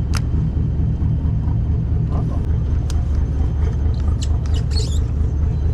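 Boat engine running steadily with a low rumble, with a few sharp ticks and a brief cluster of high squeaks about four seconds in.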